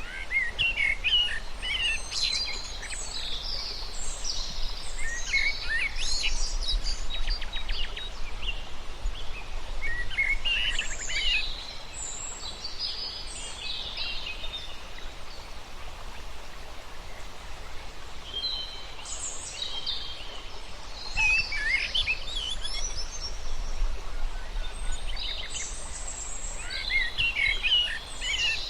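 Birds singing and chirping in bouts of quick, high twittering phrases, with pauses between bouts, over a steady low background hum of outdoor noise.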